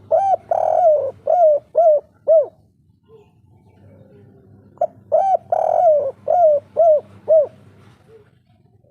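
Spotted dove (tekukur) cooing its 'kuk 3' song twice, about five seconds apart. Each phrase is a short note, a longer rough coo, then three short clipped 'kuk' notes.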